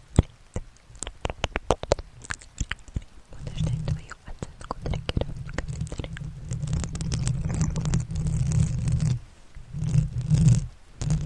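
Close-up ASMR trigger sounds: a quick run of crisp clicks and taps, then from about three seconds in a dense, crackling rub with a low rumble, as of something being scratched or rubbed right against the microphone, pausing briefly twice near the end.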